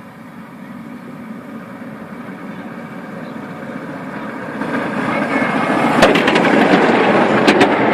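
Miniature railway diesel locomotive running and drawing closer, growing steadily louder to a peak in the second half, with a few sharp clicks near the end.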